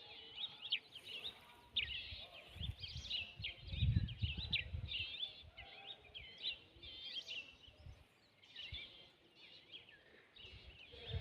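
Small birds chirping over and over, many short quick calls overlapping. A low rumble rises and falls about four seconds in.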